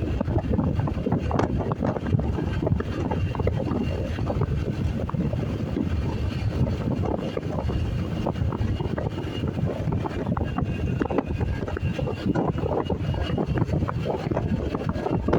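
Steady wind rush and low rumble buffeting the microphone of a motorcycle on the move.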